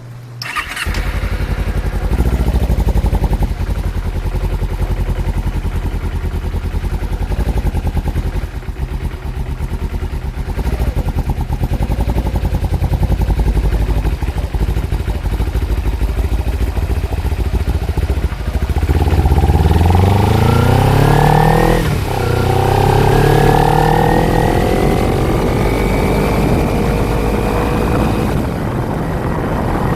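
Kawasaki Ninja 250 motorcycle engine running steadily at low revs, then accelerating in the last third: the pitch climbs, drops sharply at a gear change, and climbs again.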